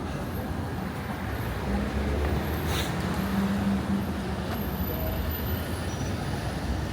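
City street traffic: vehicle engines running and passing with a steady road noise, one heavier vehicle louder for a couple of seconds near the middle, with a brief high hiss about three seconds in.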